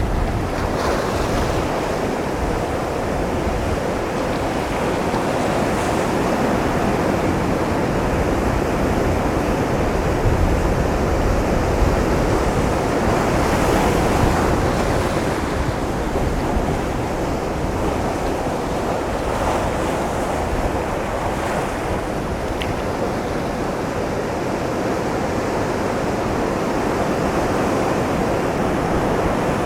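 Ocean surf breaking against a rocky shoreline: a continuous, rushing wash of water that swells louder around the middle and then eases.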